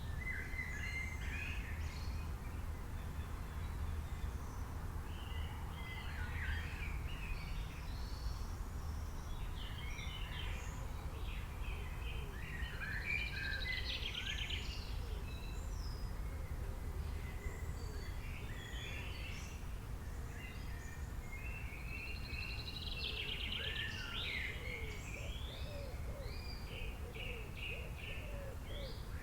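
Birds chirping and singing in bunches of quick calls and trills that come and go, over a steady low hum.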